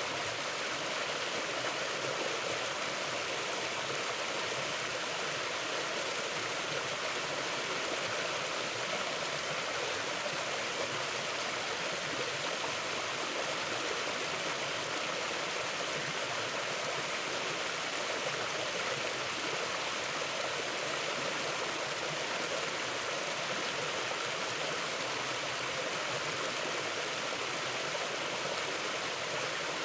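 Shallow river flowing over rocks, a steady, even rush of water without pause.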